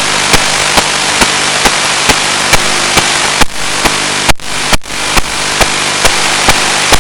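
Radio static from an analog 1.3 GHz FPV video receiver's audio: a steady loud hiss with sharp clicks about twice a second and a few brief dropouts a little past the middle.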